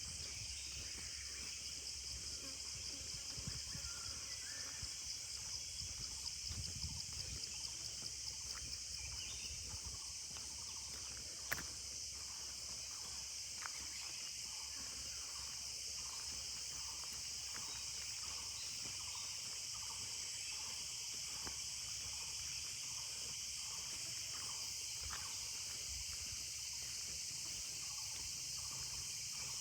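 Steady, high-pitched chorus of insects, a continuous shrill buzz with no breaks, over a low outdoor rumble. A single sharp click sounds about a third of the way through.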